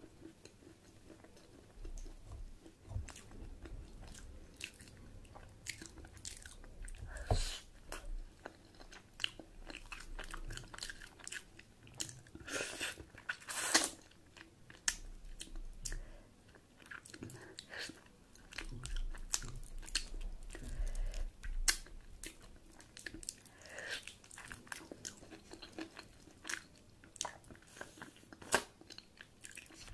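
A person eating close to the microphone: chewing and biting with moist mouth sounds, with irregular crunchy bites scattered throughout.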